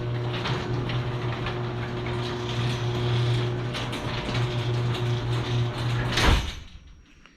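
Garage door travelling on its opener, freshly lubricated with white lithium spray: a steady mechanical hum with a rattle of chain and gears, ending with a knock just over six seconds in as the door stops.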